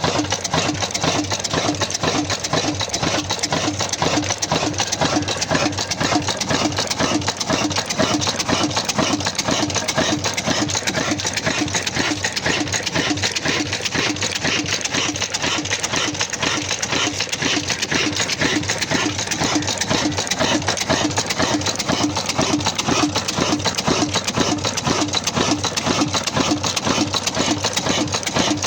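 Old Ruston diesel engine driving a tube well, running steadily with an even, rhythmic beat.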